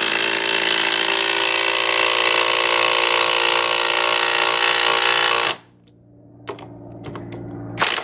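Milwaukee M18 Fuel Gen 1 cordless impact driver hammering steadily as it drives a fastener into wood, stopping abruptly about five and a half seconds in. A couple of light knocks follow near the end.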